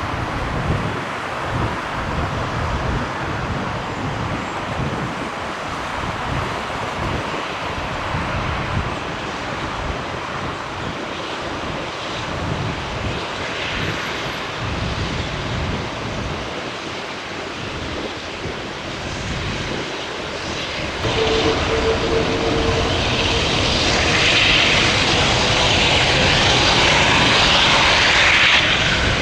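Jet airliner engines: a steady rushing noise that grows louder about two-thirds of the way through as the aircraft comes closer, with a steady engine whine joining it then.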